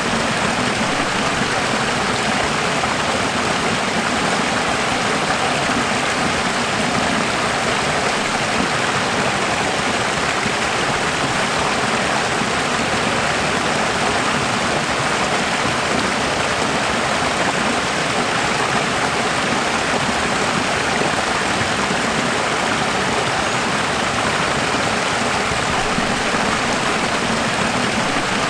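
Running water flowing steadily: a constant, even rushing noise with no breaks or changes.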